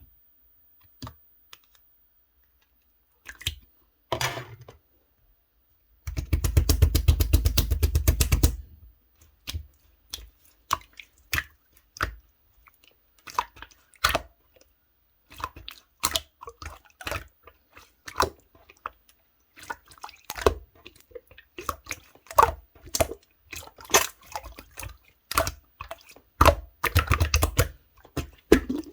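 Clear slime being squished and poked by hand, making irregular sticky clicks and pops. From about six to eight and a half seconds in, a fast, dense run of crackling clicks.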